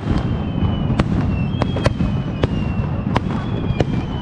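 A fireworks display going off: a dense, irregular run of sharp bangs and crackles over a continuous low rumble, with thin, slowly falling high whistles.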